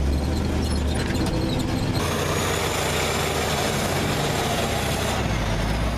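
Vintage dump truck's engine running with a low, steady drone; from about two seconds in, a loud even rushing noise covers it for about three seconds before the drone returns.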